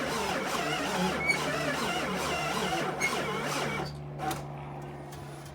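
Jeep Liberty CRD's 2.8-litre four-cylinder turbodiesel being cranked by the starter without catching, a no-start. The cranking stops about four seconds in, leaving a faint steady hum; the owner's verdict is that it doesn't sound good.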